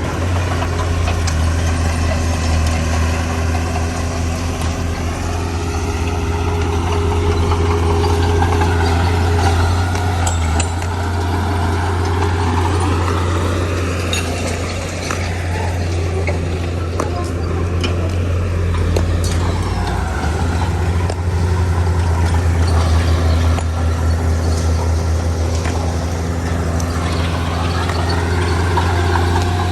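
Heavy diesel engine of earthmoving machinery running under load, a steady low drone whose pitch rises and falls as the machine works.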